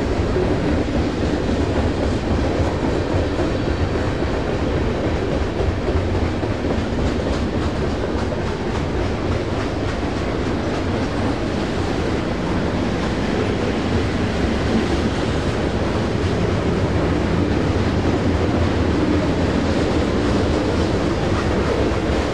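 A train passing on the Hudson line: a steady noise of steel wheels running on the rails, with a low rumble underneath.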